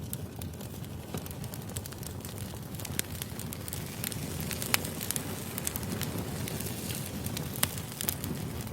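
Wood fire burning: a steady low rush with scattered sharp crackles and pops from the burning logs.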